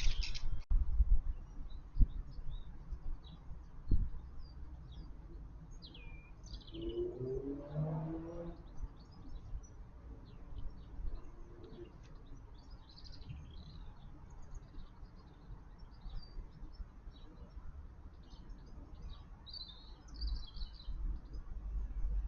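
Small garden birds chirping and twittering in many short high calls throughout. A short lower-pitched call comes about eight seconds in, and low thumps and rumbles sound on the microphone near the start and again near the end.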